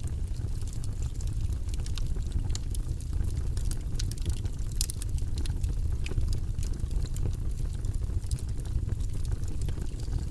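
Wood logs burning in a fireplace: a steady low rumble of the flames with frequent sharp crackles and pops, one louder pop about five seconds in.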